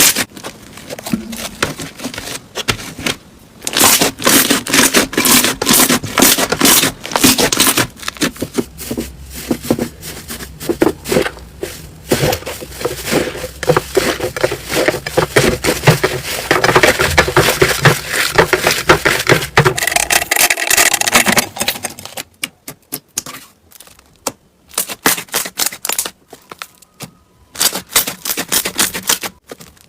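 Slime being squeezed, pressed and stretched by hand, a dense run of many small pops and clicks. After about twenty-two seconds it breaks into shorter bursts of clicking with quiet gaps between.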